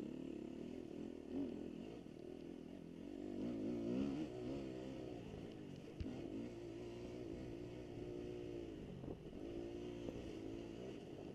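Motocross dirt bike engines revving, their pitch rising and falling again and again as the throttle is worked and gears change.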